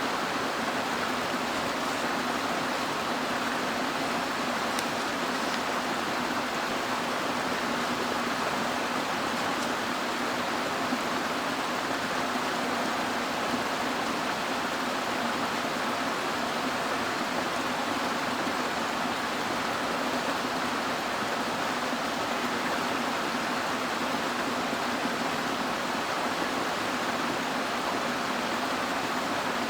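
Mountain stream running over rocks: a steady, unchanging rush of water.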